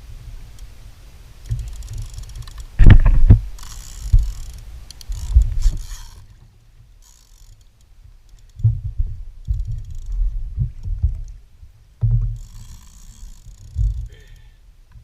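Fishing reel being worked with a ratcheting hiss in short stretches, mixed with irregular knocks and bumps on a kayak, the loudest about three seconds in, while a hooked tarpon is fought.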